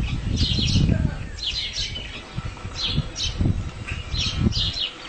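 Small birds chirping in short high phrases roughly once a second, over a low rumbling noise that is loudest in the first second or so.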